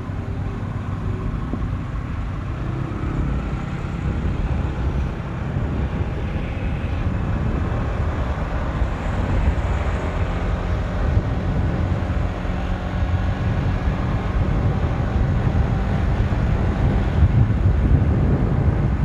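Motorcycle underway: a steady engine note under road and wind rumble, growing slowly louder.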